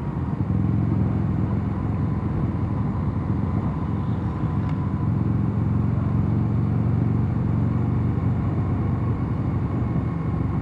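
Mondial Nevada 250 motorcycle riding at a steady cruise, its engine running evenly with road noise, with no change in pitch.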